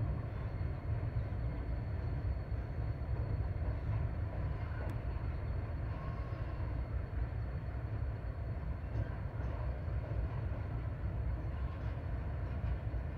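Steady low rumble of a distant train, with no distinct clanks or horn.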